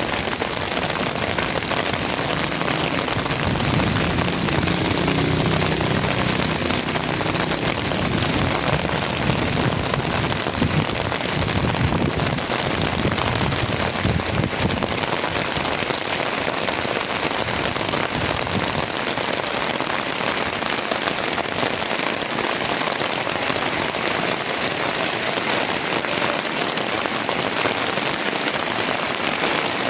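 Heavy rain falling steadily, a dense, even hiss of drops on surfaces. A faint low hum rises and fades between about three and nine seconds in.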